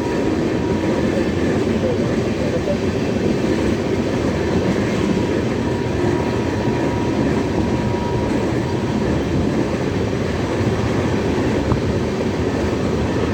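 A moving train running steadily, its noise continuous and even throughout.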